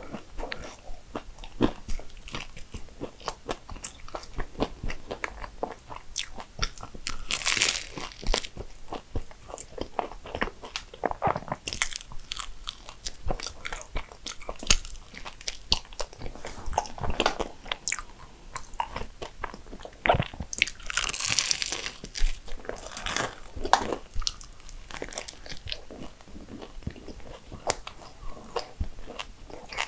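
Eating a flaky Danish pastry with cream: steady chewing with soft crackles and crunches of the pastry. Louder crackling bites come about a quarter of the way in and again about two-thirds of the way through.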